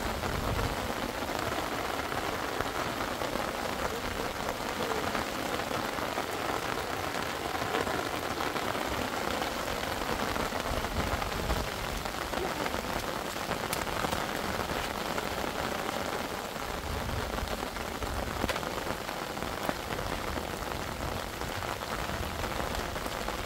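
Steady rain falling on a surface, a dense continuous patter of drops.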